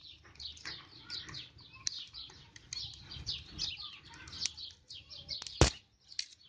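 Small songbirds chirping steadily in quick, high, falling notes. A single sharp knock sounds about five and a half seconds in.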